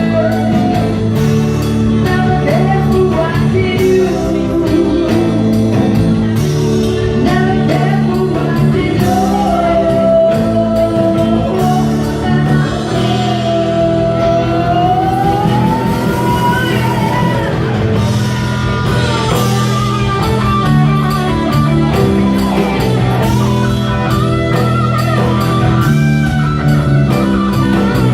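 Live rock band playing a slow song, with guitar and bass under a gliding melodic lead line.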